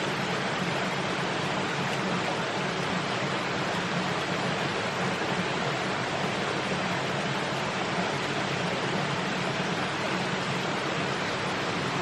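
Steady rushing of water, even and unbroken.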